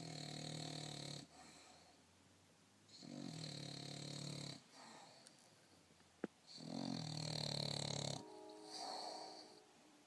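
English bulldog snoring in its sleep: three loud snores about three seconds apart, each about a second and a half long, with softer breaths out between them. A single sharp click sounds just before the third snore.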